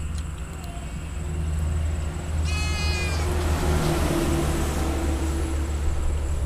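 A goat bleats once, a short high-pitched call about two and a half seconds in, over a steady low rumble.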